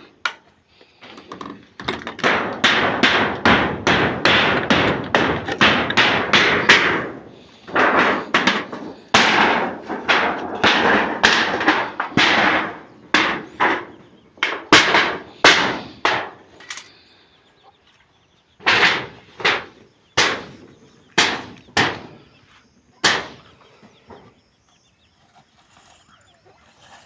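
A run of sharp knocks, rapid and crowded for several seconds, then thinning out to single blows about a second apart before stopping a few seconds from the end.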